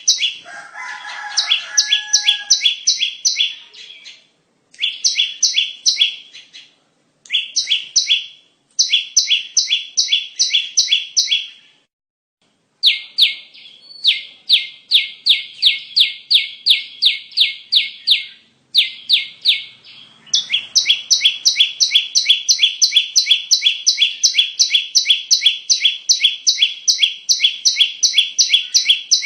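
Bar-winged prinia (ciblek) calling: rapid runs of sharp, repeated high chirps at about four notes a second, broken by short pauses, then running unbroken for the last third. A few fainter, lower chirps come in about a second in.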